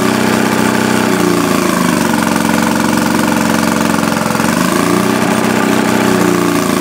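Maytag Model 72 twin-cylinder two-stroke engine running steadily, its speed swinging up and back twice, as it does when a load is put on it and taken off.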